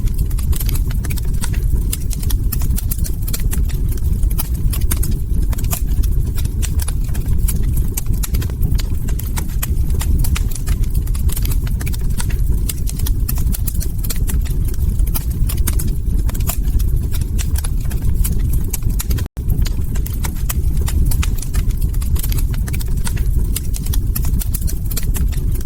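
Log fire crackling, dense irregular pops and snaps over a steady low rumble; the sound drops out for an instant about nineteen seconds in.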